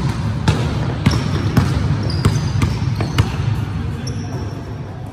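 A basketball dribbled on a wooden indoor court, bouncing about twice a second for the first three seconds, then stopping as it is passed. Short high sneaker squeaks and voices come through the echo of the gym.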